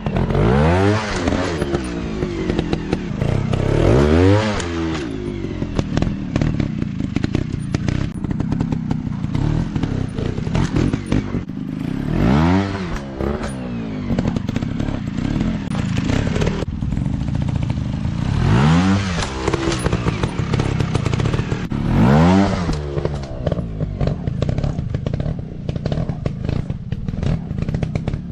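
Small dirt-bike engines running, with the throttle blipped in quick revs that rise and fall in pitch about six times over a steady engine note.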